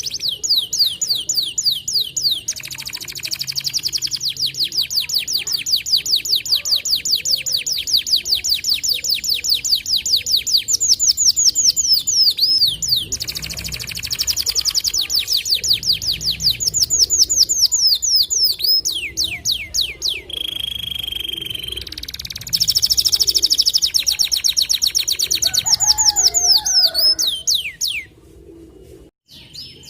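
White canary singing long, fast trills of rapidly repeated high notes, several seconds each with short breaks between, and a brief steady whistle about two-thirds of the way through. The song drops away suddenly near the end.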